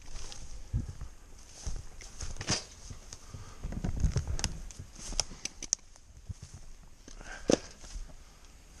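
Irregular footsteps and knocks of wood being handled, with a run of dull thuds about four seconds in and a single sharp knock near the end.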